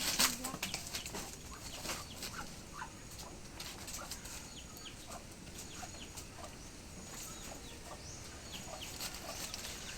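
Chickens clucking, a scatter of short calls, louder in the first moment.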